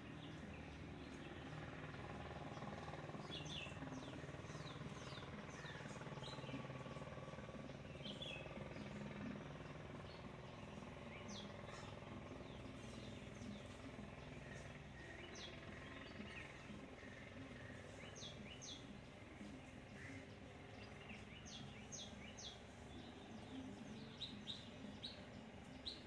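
Faint, short, sharp bird calls, scattered and often coming in quick pairs or small clusters, over a steady low background hum.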